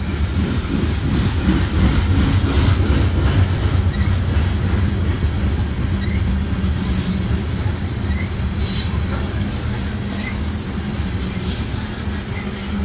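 Covered hopper cars of a freight train rolling past: a steady low rumble of steel wheels on the rails, with a couple of brief high-pitched streaks of sound near the middle.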